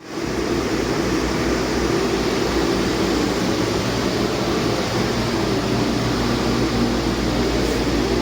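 2009 Cummins ISX inline-six diesel engine running steadily on a test run, with an even, unchanging engine note and no revving.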